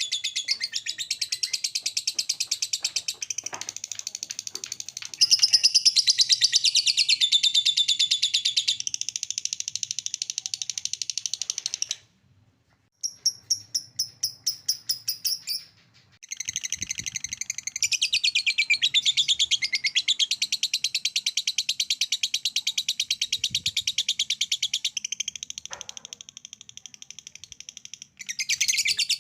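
Lovebird ngekek: a long, fast, shrill chattering trill. About twelve seconds in it breaks off for a second, gives a slower string of separate chirps, then goes back into the rapid chatter.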